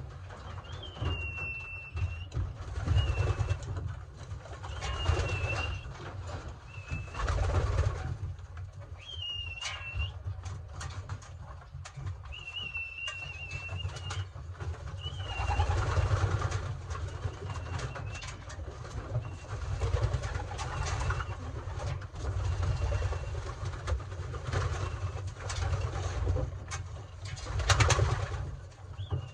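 Racing pigeons cooing in a loft, with short thin high whistles repeating every second or two and scattered clicks and knocks.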